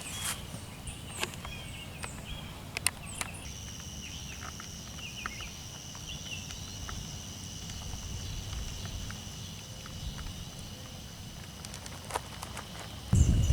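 Outdoor ambience: a steady high-pitched drone with a few short chirps early on and scattered light clicks and footsteps, over a low rumble. Just before the end it cuts suddenly to loud wind and rain noise.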